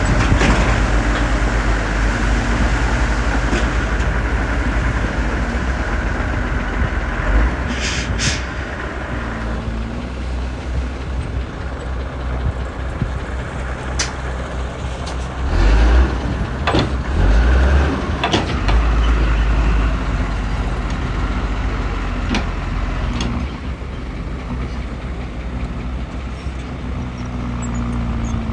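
Heavy diesel earthmoving machinery running steadily with a deep engine drone. There is a short hiss of air about eight seconds in, and the engine surges louder a couple of times around the middle.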